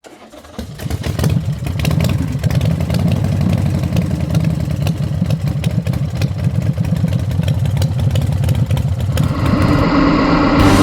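Harley-Davidson Softail Breakout's V-twin engine idling with a lumpy, pulsing rumble, coming up within the first second.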